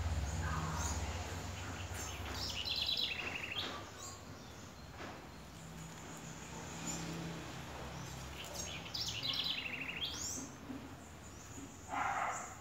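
Songbirds chirping in quick repeated trills, one run about two to four seconds in and another around nine to ten seconds, over a low steady outdoor hum. A brief louder noise comes near the end.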